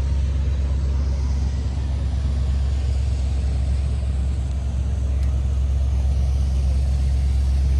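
A tour boat's engine running with a steady low drone, heard from on board, under a steady hiss of wind and water.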